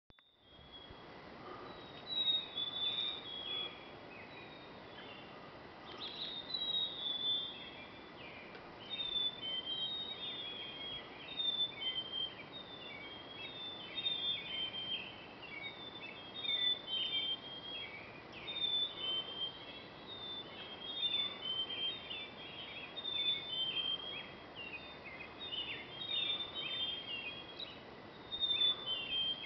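Birds singing in the pre-dawn chorus: many short, high-pitched phrases repeating and overlapping without a break, over a low background hiss.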